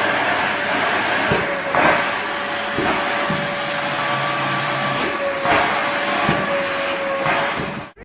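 Loud, steady machine whirring with a high whine held throughout and a few knocks over it. It cuts off suddenly near the end.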